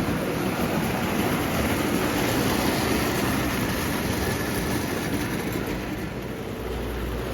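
Vintage Marx O gauge electric toy train running steadily on its track, with its worn, unserviced motor and wheels making a continuous rough whirring rattle.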